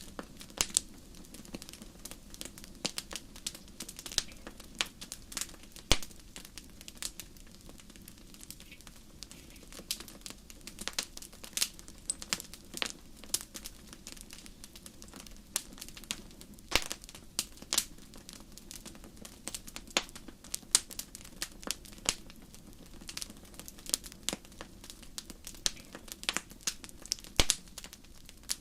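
Wood fire crackling in a fireplace: a steady stream of irregular sharp pops and snaps over a low, even rumble of flame.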